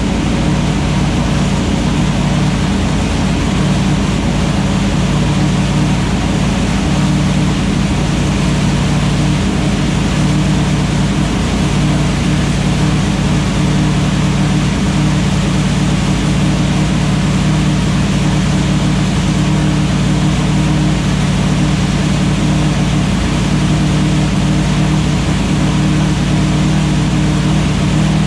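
Engine idling steadily while warming up, its pitch holding constant with no revving.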